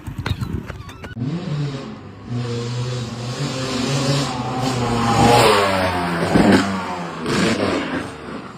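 An engine starts running about a second in, holds a steady pitch, then revs up around five seconds in. A sharp knock comes near the peak of the rev.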